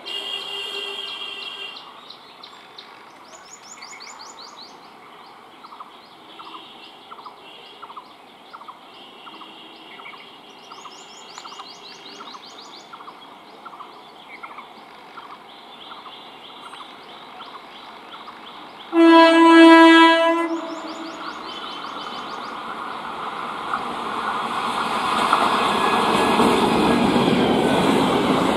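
Old ICF electric multiple-unit local train approaching: birds chirp over quiet surroundings, then the train sounds one loud horn blast of about a second and a half, two-thirds of the way in. After that the rumble and clatter of the train's wheels and coaches grow steadily louder as it runs past close by.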